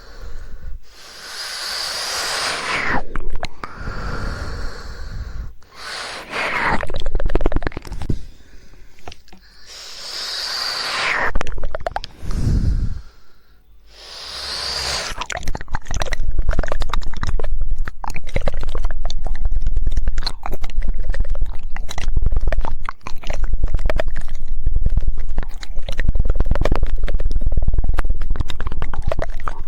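ASMR mouth sounds close to the microphone: breathy, wet mouth noises in separate stretches for about the first half, then a fast, continuous run of tongue clicks, the rapid 'woodpecker' tongue clicking, for the rest.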